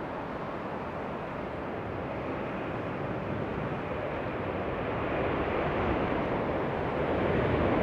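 Jet airliner approaching: a steady rushing engine noise that grows slowly louder throughout.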